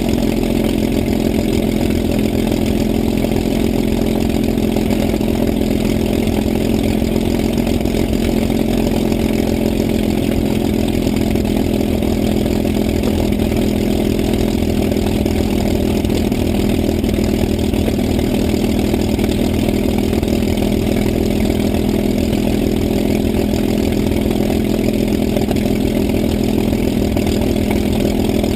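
An engine running steadily at an even, unchanging idle.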